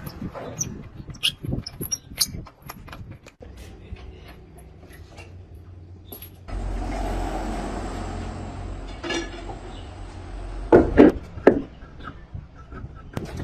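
Scattered knocks and clicks of workshop work. About six and a half seconds in, a steady machine running starts suddenly, with a low rumble and a thin high whine, and a few loud knocks come near the end.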